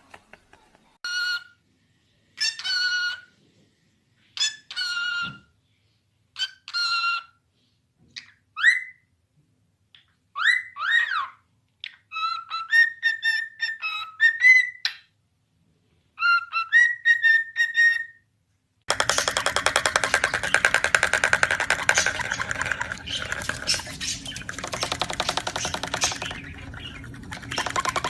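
A bird gives a series of short, separate calls, each under a second long, some rising or falling quickly in pitch. About two-thirds of the way in, continuous music starts.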